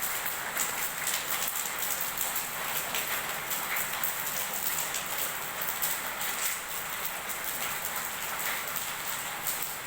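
Steady rain falling, with a dense, even rush and many individual drops striking hard surfaces.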